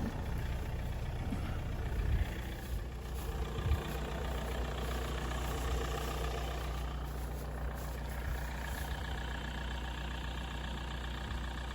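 An engine idling steadily, a low even hum, with a couple of brief knocks in the first four seconds.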